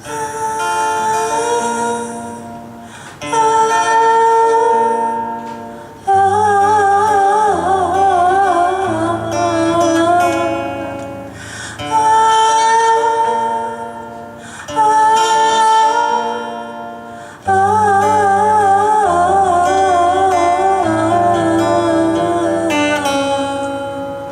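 Live band music: a woman sings a series of long held notes with vibrato, phrase after phrase, over guitar and bass.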